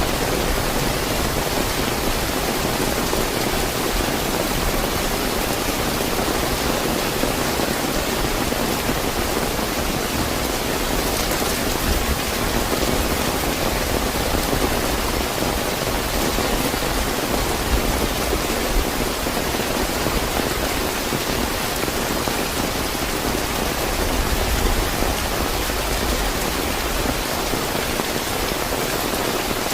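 Steady, fairly heavy rain falling and pattering on surfaces, an even unbroken hiss with a low rumble underneath.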